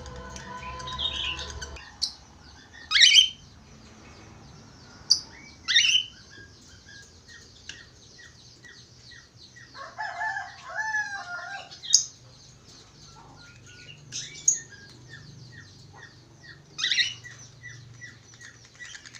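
Budgerigars chirping and warbling: quick runs of short high chirps, a burst of warbling chatter around the middle, and several loud, sharp calls. A faint low hum runs underneath.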